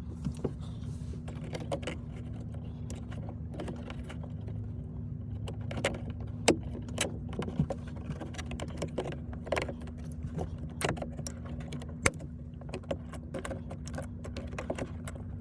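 Scattered small plastic clicks, taps and rattles as the retaining clips of a truck door's window-switch panel are pried and worked loose, over a steady low hum.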